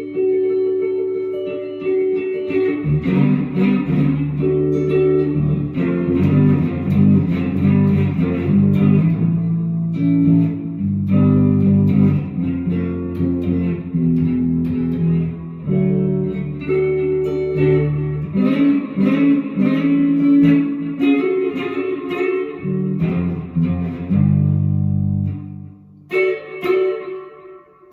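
Music led by plucked guitar, with a moving low line beneath it, briefly dropping away near the end.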